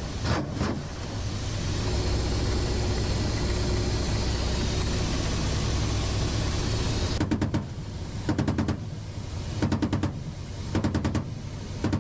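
Military attack helicopter combat sound: a steady rushing engine and rotor noise, then from about seven seconds in a series of short bursts of rapid fire, one every second or so.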